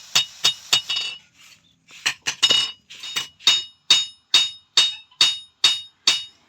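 Blacksmith's hand hammer striking metal on an anvil, each blow ringing. After three quick blows there is a pause of about a second, then the blows go on steadily at two to three a second.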